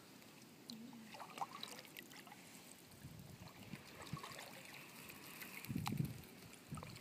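Faint water trickling and lapping against a canoe gliding on a slow river, with small scattered ticks and a soft low bump about six seconds in.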